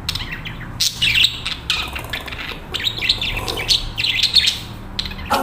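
Budgerigars chattering in a quick, continuous run of short high chirps and warbles, over a low steady hum.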